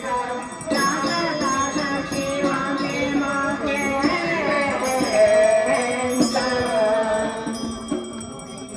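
Devotional chanting sung as a slow melody over musical accompaniment, with held notes that glide gently in pitch.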